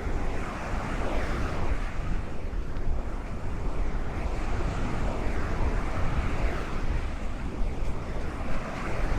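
Ocean surf washing along the shore, with wind buffeting the microphone as a steady low rumble.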